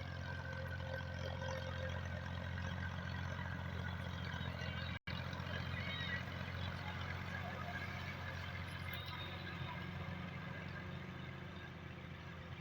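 Massey Ferguson 240 tractor's three-cylinder diesel engine running steadily under load while pulling a rear blade across the ground. The sound cuts out for a split second about five seconds in.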